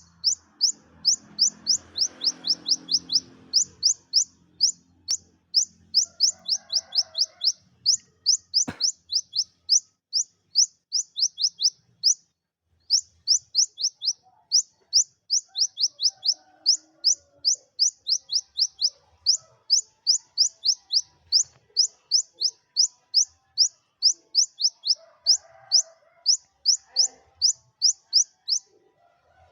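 Kolibri ninja sunbird singing a fast, high chirping song of short notes, each dropping in pitch, at about five a second in long runs with one brief pause about twelve seconds in. A single click sounds a little before the nine-second mark.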